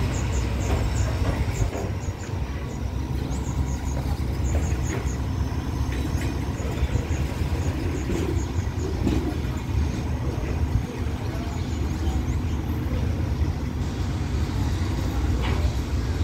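Thai passenger train pulling out of the station, its coaches rolling along the track with a steady low rumble.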